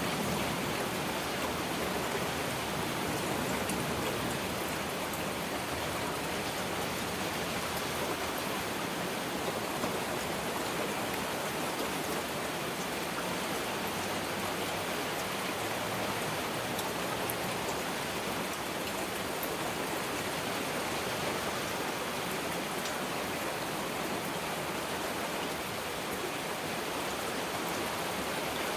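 Heavy rain falling steadily, an even, unbroken hiss of drops with no thunder.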